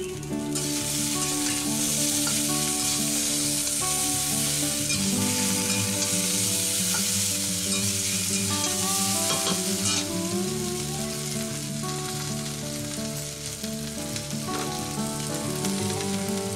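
Chicken and potato pieces sizzling in hot oil in a kadai, stirred and scraped with a metal spatula. The sizzle is loudest for the first ten seconds or so, then dies down. Background music plays underneath.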